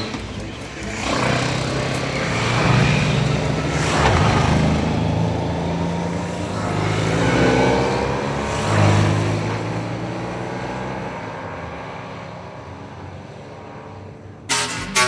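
Several motorcycles riding past one after another, each engine swelling and falling in pitch as it goes by, then fading away. Music cuts in just before the end.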